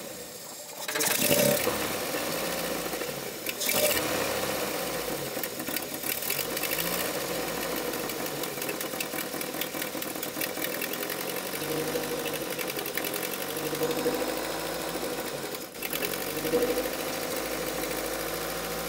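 MG Montego Turbo's 2.0-litre four-cylinder engine catching about a second in and running unevenly, the revs rising and falling with a short dip late on. It is being kept alive on fuel fed by hand from a syringe, the fuel pump being suspect.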